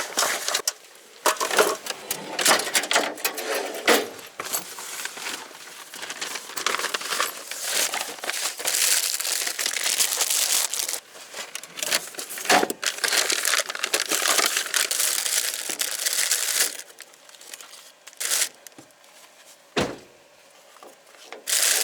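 Food packaging crinkling and rustling as it is handled and unwrapped, in a dense crackle that thins out about three-quarters of the way through, leaving a few short crinkles.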